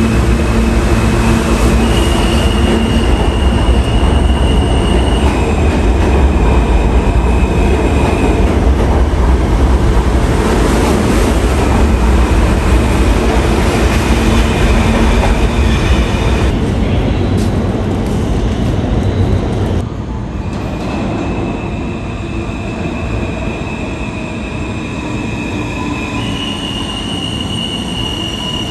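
New York City subway train running on the track, a loud low rumble with thin high tones that hold steady and step between pitches. The rumble eases about twenty seconds in but the train stays loud.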